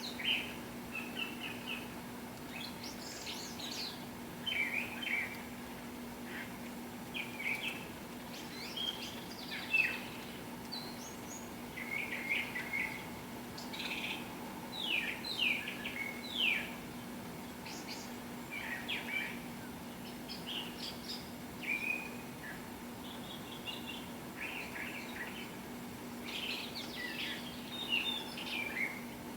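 Wild songbirds chirping and singing in short, irregular phrases, several overlapping at times, over a steady low hum.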